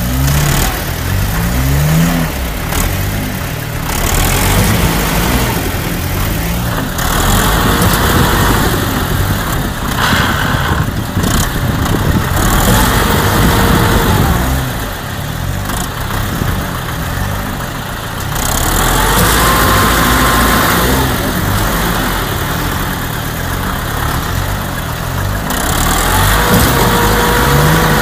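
Motor vehicle engines running hard and revving, their pitch rising and falling again and again, over a loud, rough noise.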